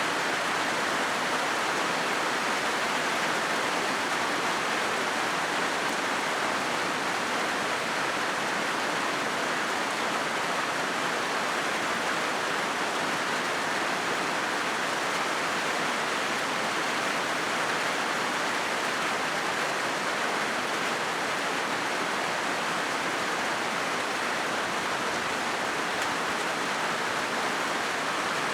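Rain falling steadily on a corrugated zinc roof: a dense, even hiss with no separate drops standing out.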